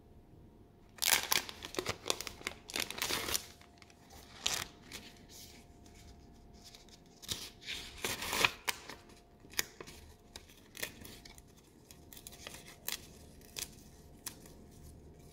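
Stationery packaging being opened and handled: bursts of rustling, tearing and cutting noises, loudest over the first few seconds and again around the middle, then thinning to scattered small clicks and taps.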